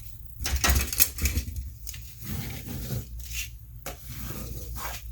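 Paper rustling and rubbing as glued sheet music is pressed and smoothed down onto a journal cover, with a few light knocks on the work surface, the loudest about a second in.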